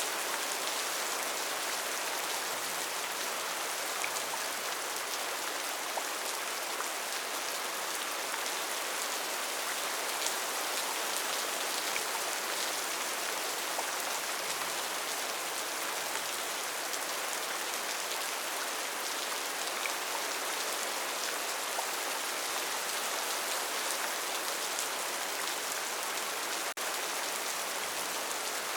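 Steady rain falling, a dense even patter with a few louder single drops standing out. The sound drops out for a split second near the end.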